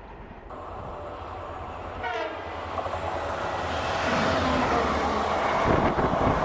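Diesel locomotive of an express train sounds a short horn blast about two seconds in, then its noise and the rush of the train grow loud as it runs through the station at speed.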